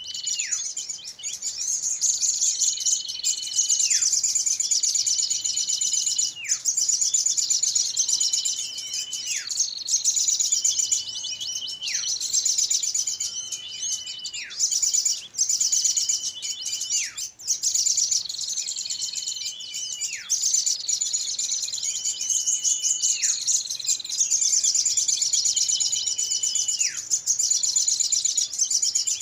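Bird-lure recording of agitated small birds calling: dense high-pitched chattering over a repeating call, a held whistle that drops sharply in pitch, coming back roughly every two seconds.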